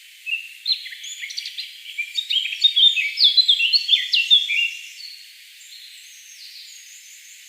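Birds chirping: a quick, busy run of short sliding chirps from just after the start to about five seconds in, then only a faint steady background hiss.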